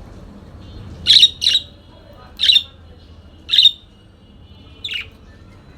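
Parakeet giving five short, sharp squawking calls about a second apart; the first two come close together and are the loudest.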